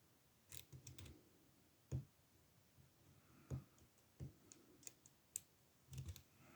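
Faint, irregular clicks and taps from lock picks working inside an older ASSA Ruko oval-cylinder padlock, with the lock in a false set.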